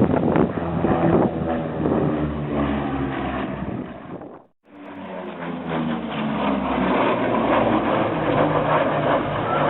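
Lockheed P-38 Lightning's twin Allison V-12 piston engines running with a steady, deep drone. The sound breaks off briefly about four and a half seconds in, then comes back.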